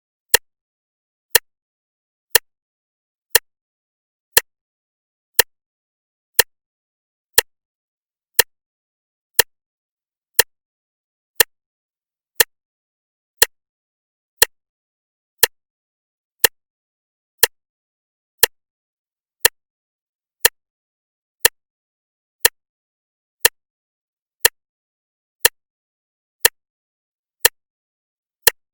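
Clock ticking steadily once a second, each tick a short, sharp click with dead silence between.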